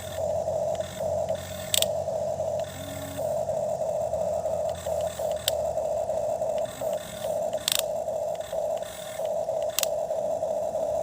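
Toy excavator's small electric motor whining in stop-start bursts as it works, with a few sharp clicks.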